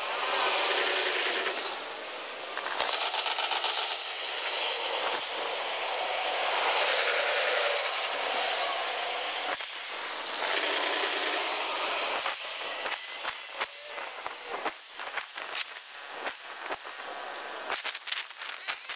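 Hankyu electric trains crossing a steel railway bridge, heard at ten times speed. The passing trains become a high hissing rush that swells and fades in waves, then breaks up past the middle into a scatter of rapid sharp clicks.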